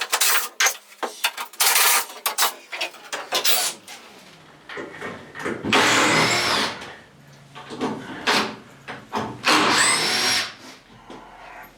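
A power drill running in short bursts, with two longer whirring runs, one about halfway through and one near the end, and knocking and clattering between them.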